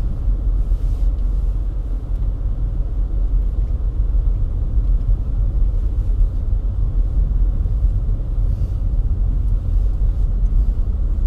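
Low, steady rumble of a 2009 Chevrolet Impala SS's V8 idling as the car rolls slowly on a snowy road.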